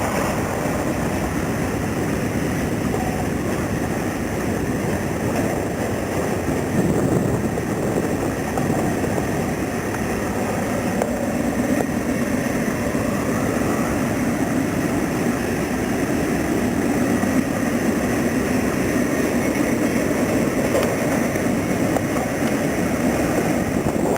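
Ferromex freight train running past, a steady loud rumble of wheels on rail and diesel locomotive running.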